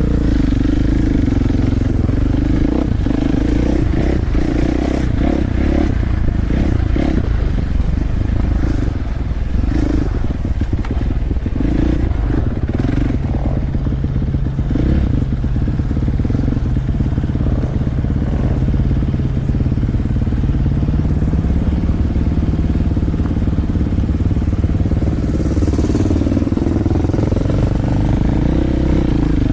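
Dirt bike engine running as the bike rides over rough, rocky trail, with clatter and knocks of stones and chassis throughout; the engine pitch steps up about twenty seconds in.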